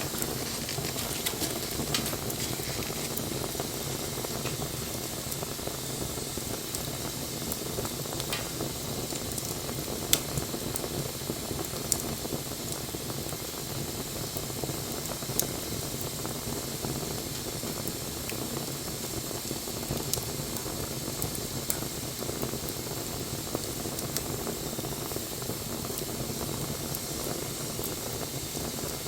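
Wood bonfire burning with a steady hiss of flames, broken every few seconds by a sharp pop from the burning wood.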